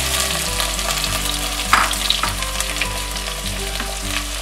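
Crushed shallots and curry leaves sizzling in hot oil in an earthenware pot, a steady hiss, with a sharp clink a little under two seconds in.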